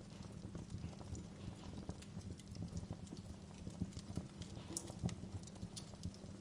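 Wood fire burning in a fireplace: irregular crackles and pops over a low steady rumble of flames, with a few sharper snaps in the second half.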